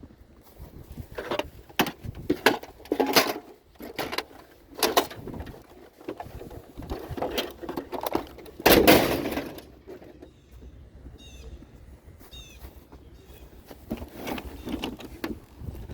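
Irregular knocks and clattering, the loudest about nine seconds in, then a few short high chirps a little later.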